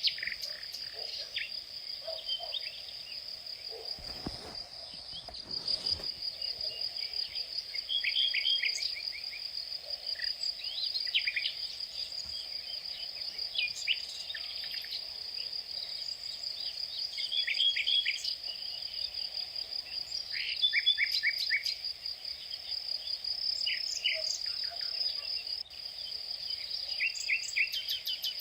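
A steady, high-pitched insect trill runs on without a break, while birds call in short bursts of quick repeated chirps every few seconds.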